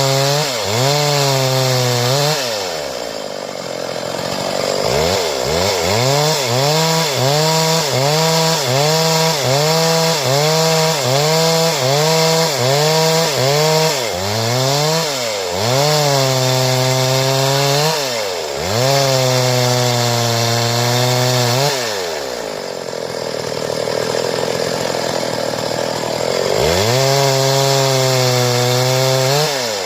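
Stihl two-stroke chainsaw sawing through wood, held at high revs with a rhythmic dip in pitch about every two-thirds of a second. Twice it drops back to idle for a few seconds, then revs up again.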